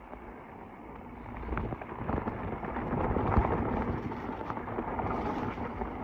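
Mountain bike riding over wet, muddy trail: a steady rush of tyre and wind-on-microphone noise with scattered knocks and rattles. It grows louder about a second and a half in, with the loudest knock a little past the middle.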